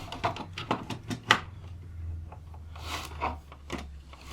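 A run of sharp plastic clicks and knocks with short scrapes as a UPS battery is worked out of its case and handled, the loudest knock about a second in.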